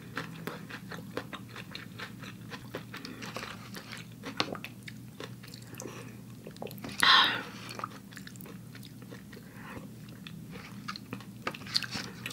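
Close-miked chewing and mouth sounds of a person eating a rice vermicelli noodle bowl: many small wet clicks and bites. There is one brief louder noise about seven seconds in, and a faint steady hum underneath.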